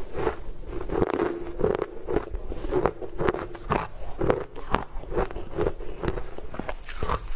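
Close-miked chewing of crunchy coloured ice, a steady run of crunches about three times a second.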